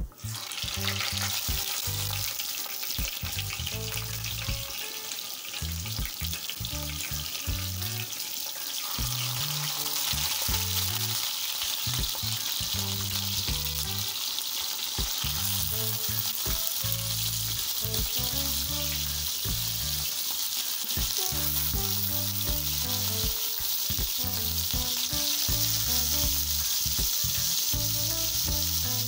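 Prawns sizzling in hot oil in a frying pan as they are laid in one by one. The sizzle starts suddenly and gets louder about nine seconds in as more prawns go in, over soft background music.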